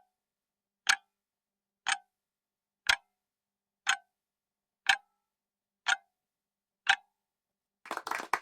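Countdown timer sound effect: a clock ticking once a second, eight even ticks. Applause starts near the end.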